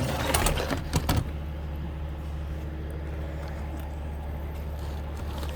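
Heavy truck engine idling steadily with a low, even hum, with a few sharp clicks and knocks in the first second or so.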